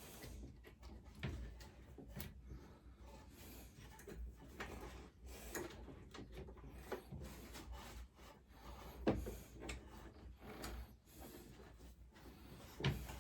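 Light handling sounds of work on a petrol lawnmower's fuel system: scattered small clicks, knocks and rubbing of parts being moved, with a sharper knock about nine seconds in.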